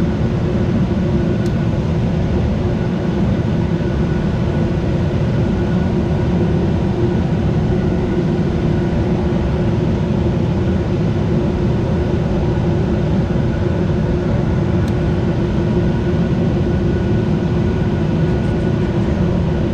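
Furnace running in heating mode: a steady, loud whoosh of moving air, with a faint constant hum from its motors on top.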